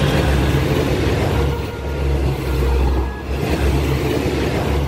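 Train running along the rails: a steady rumble of diesel railcar and wheel noise that swells and dips every second or so.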